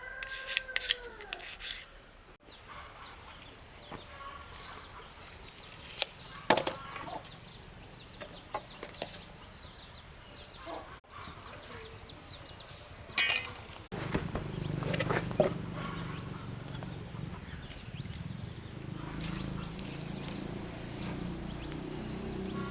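Domestic chickens clucking and calling, with a few sharp knocks in between; about two-thirds of the way through, a steady low hum sets in.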